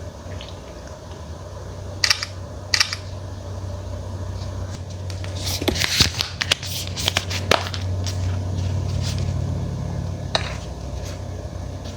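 Hands handling a smartphone and its packaging: a few single sharp clicks and taps, with a quick run of clicks and rustling in the middle, over a steady low hum.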